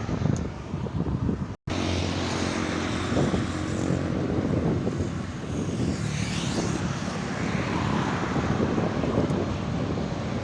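Heavy trucks' diesel engines running as they pass along a highway, over a steady rush of road noise. The sound cuts out for an instant about a second and a half in, and a falling whine goes by a little past the middle.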